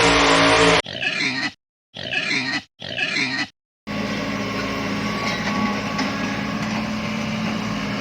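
A running engine cuts off, then a pig oinks three times in short separate grunts. After that a vehicle engine runs steadily.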